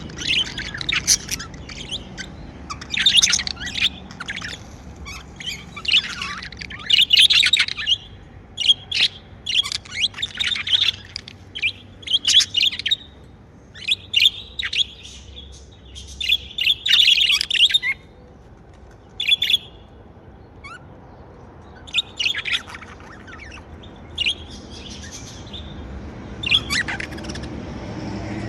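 Pet budgerigars chirping and warbling in busy bursts of short, high chirps, with a brief lull about two-thirds of the way through.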